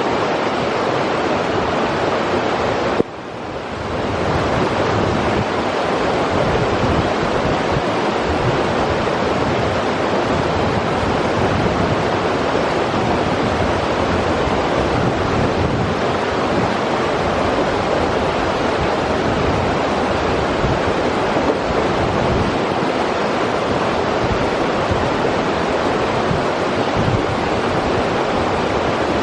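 A river running, a steady loud wash of flowing water with no break, apart from a brief drop in level about three seconds in.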